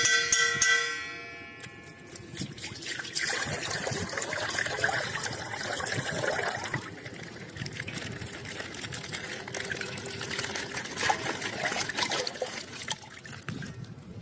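A bright chime rings and fades over the first second or so. It is followed by a long stretch of crackling and rustling from plastic packaging being handled and opened, full of small clicks.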